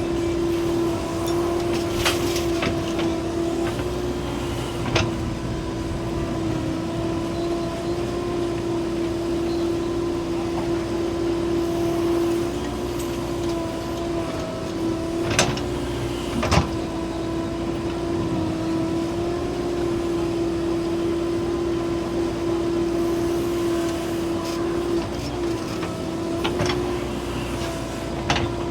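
Heavy diesel machinery running steadily with a constant, even drone, broken by a few sharp metallic knocks.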